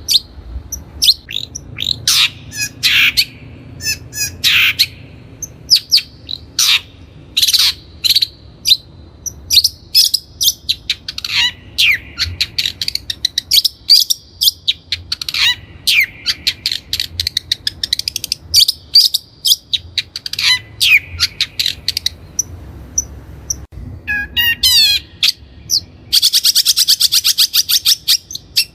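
Long-tailed shrike (Lanius schach) singing: a fast, varied string of sharp notes that sweep down in pitch, then a rapid, buzzy rattle in the last few seconds.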